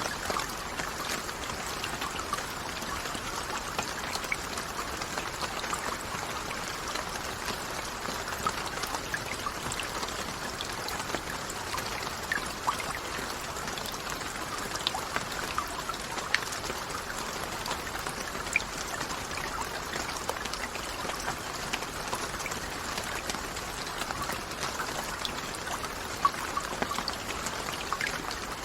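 Steady rainfall: an even wash of rain with many individual drops ticking sharply over it.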